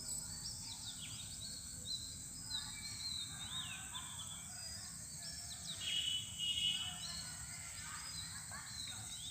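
Birds chirping in the background: many short, downward-sliding calls throughout, with a brief louder trill about six seconds in, over a faint steady hiss.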